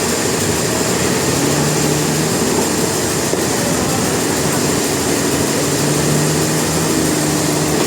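Sawmill machinery running steadily with a loud, even drone and a low hum that fades in and out.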